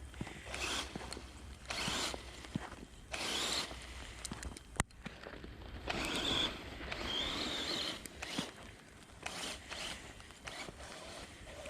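Small brushed 390 electric motor and gearbox of a toy-grade RC truck whining in repeated short bursts of throttle, some rising in pitch, with the tyres churning through snow. One sharp click a little before the middle.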